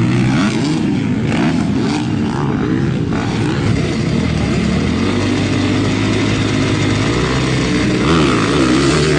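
Dirt bike engines revving, their pitch rising and falling through the gears as motocross bikes race around a track.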